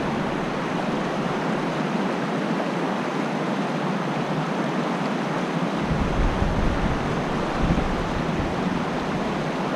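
Fast creek current rushing steadily, with a couple of low rumbles about six and eight seconds in.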